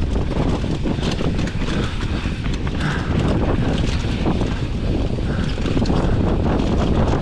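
Wind buffeting the microphone over the steady rumble and rattle of a Commencal Meta AM 29 mountain bike descending a dirt trail at speed, with many small clicks and clatters from the bike and tyres.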